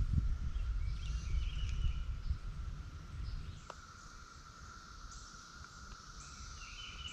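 Steady, even drone of a distant chorus of periodical cicadas from Brood XIX, with a few short bird calls over it. Low rumble in the first couple of seconds fades out.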